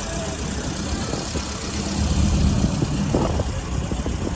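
Standard Flying Eight's side-valve four-cylinder engine idling steadily and smoothly, ticking along like a sewing machine.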